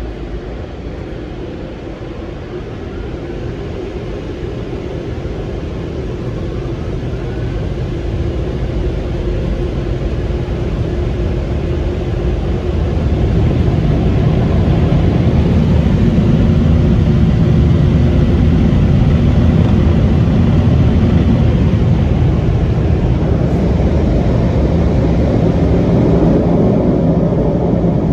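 Mark VII ChoiceWash XT automatic car wash machine running through its cycle: a loud, steady rushing rumble that grows over the first half and then holds steady.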